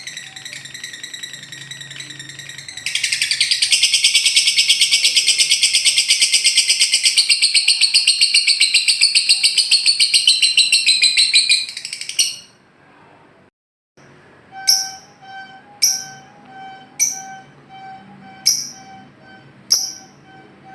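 Recorded songbird calls: a rapid chattering trill held for about nine seconds, then a brief pause and a run of six sharp chirps spaced evenly about a second apart.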